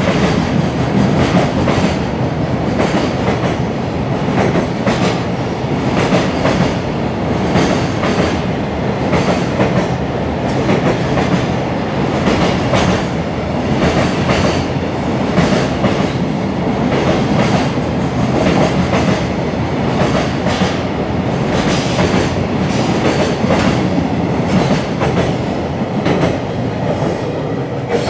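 Container freight train wagons passing close at speed, their wheels clacking over the rail joints again and again over a steady rumble. The noise falls away near the end as the last wagon passes.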